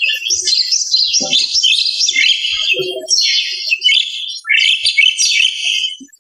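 Mynas chattering: a dense, continuous stream of busy calls with short breaks.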